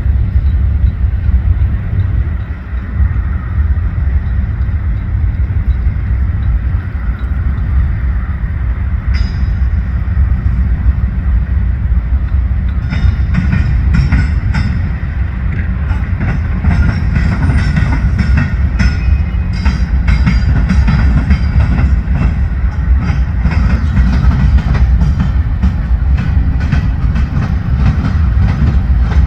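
Train passing close by with a heavy, steady low rumble. From about halfway through, the wheels click sharply and often over the rail joints.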